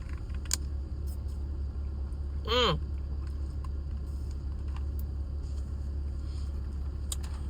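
Steady low hum of a car idling, heard from inside the cabin, with a few faint clicks. About two and a half seconds in, a short hummed "mm" that rises and falls in pitch as she eats.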